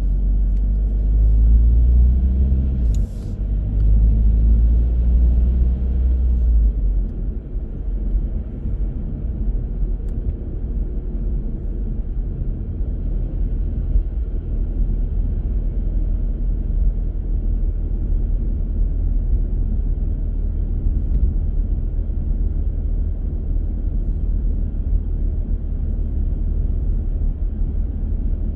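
Car driving: a steady low rumble of engine and road noise. A pitched engine drone sits over it for the first six seconds or so, with a short sharp click about three seconds in, after which only the even tyre and road rumble remains.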